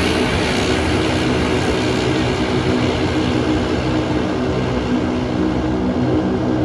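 Antonov aircraft's engines at takeoff power: a steady roar with a hum of several steady low tones underneath.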